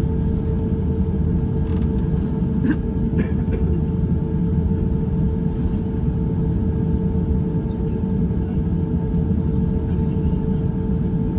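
Cabin noise of an Airbus A350-900 on the ground, most likely taxiing: a steady low rumble with a constant hum over it. A few faint clicks about two to three seconds in.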